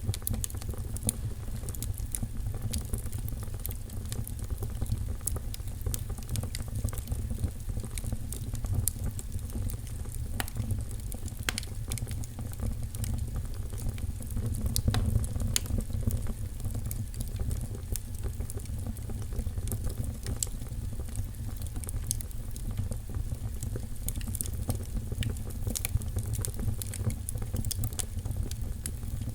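Fire burning in a fireplace, crackling and popping in many sharp irregular snaps over a steady low rumble.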